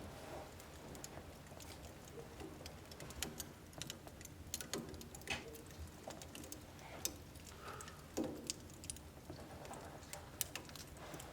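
Wood fire in a home wood-burning stove crackling, with scattered sharp pops and ticks from the burning logs over a low steady rumble of the flames.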